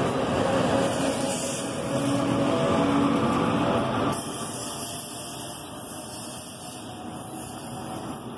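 NJ Transit multilevel train moving off past the platform, wheels rumbling on the rails under a faint steady hum, pushed by an ALP-46A electric locomotive at its rear. The sound drops suddenly about four seconds in as the locomotive goes by, then carries on quieter as the train heads away.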